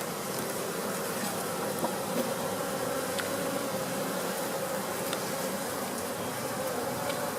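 A swarm of honey bees buzzing steadily around an open hive, a continuous hum with a few faint clicks.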